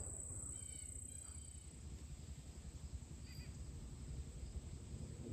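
Outdoor field ambience: a steady high insect trill, low irregular wind rumble on the microphone, and a few faint short bird chirps, the first about a second in and another past the middle.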